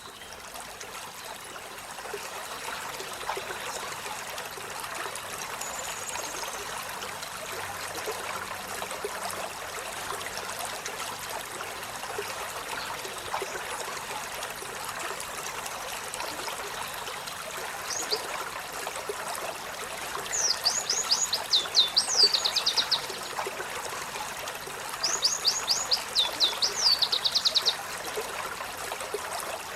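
Olive-backed sunbird singing over a steady rush of running water. It gives a single high note early on, then two fast phrases of sharp, high, sweeping notes in the second half.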